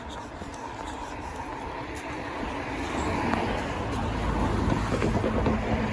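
A road vehicle approaching, its engine rumble and tyre noise growing steadily louder.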